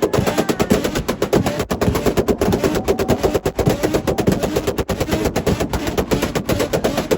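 Car exhaust popping and banging in a rapid, continuous stream, the sound of an engine held on a rev limiter or launch control with a pop-and-bang tune.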